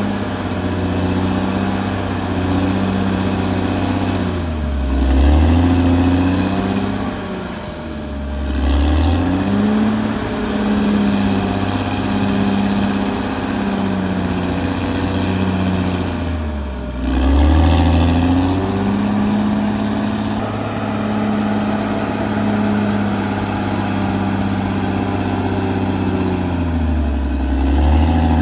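Caterpillar D6R XL bulldozer's diesel engine running hard. Its pitch sags and recovers four times.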